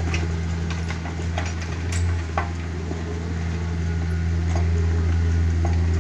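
Takeuchi TB150 mini excavator's engine running steadily, with a handful of short, sharp clinks and knocks scattered over it.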